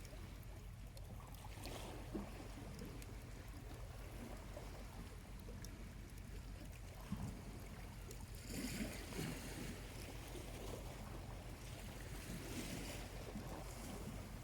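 Small waves washing on a quiet beach, with a fuller wash about two-thirds of the way in and a steady low rumble underneath. A charcoal campfire gives a few faint ticks.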